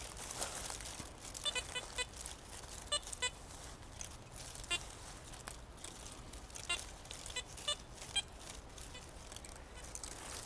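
About ten short electronic beeps from a metal detector at irregular intervals, over a faint rustle of footsteps through vegetation.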